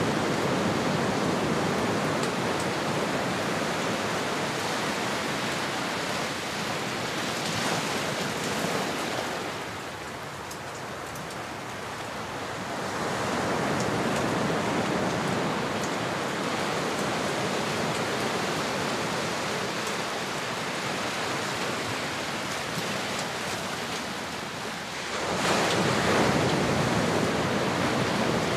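Ocean surf: a continuous wash of waves that swells and ebbs, easing off about ten seconds in and surging again near the end.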